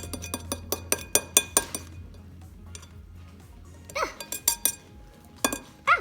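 A whisk clinking against a bowl as batter is whisked: a quick run of taps in the first two seconds, then more clinks about four seconds in and again just before the end.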